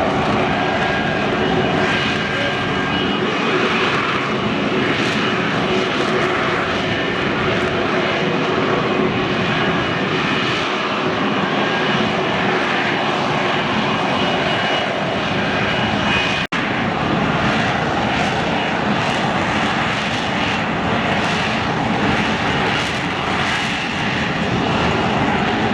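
Military aircraft engine noise, loud and steady, from an air show flying display, briefly cutting out once about two thirds of the way through.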